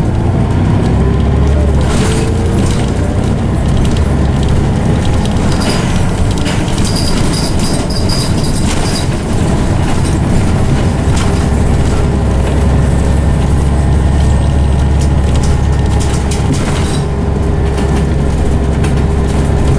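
Scania OmniCity bus running, with the loud whine of its ZF automatic gearbox over the engine; the whine rises in pitch near the start and then holds steady. Scattered clicks and rattles come through over it.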